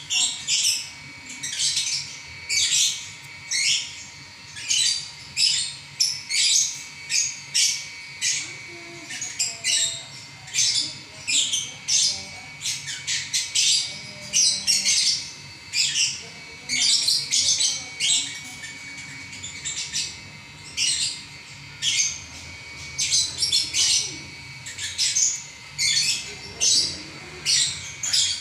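Lovebird 'ngacor' song: a long, unbroken run of rapid, shrill chattering and squawky trills, about two bursts a second, with barely a pause.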